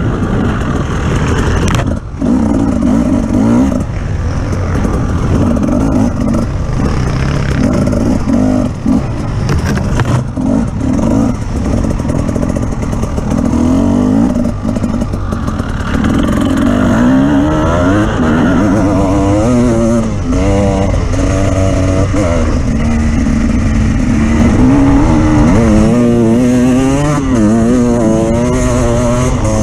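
Off-road vehicle engine running under changing throttle, its pitch rising and falling again and again in the second half as it is revved over rough ground, with some rattling.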